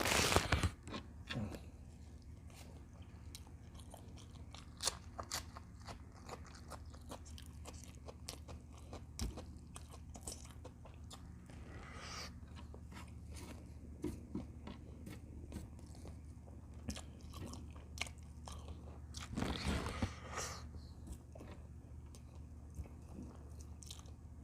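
Close-up eating sounds: chewing and biting, with many small wet clicks of the mouth. A louder burst comes at the very start and again about twenty seconds in.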